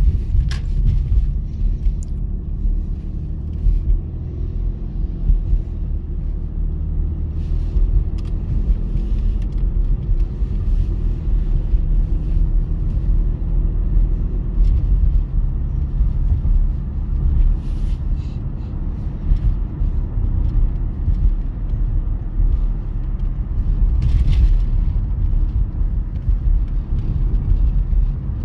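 Steady low rumble of a ChME3T diesel shunting locomotive running with a freight train, with occasional short clicks and knocks.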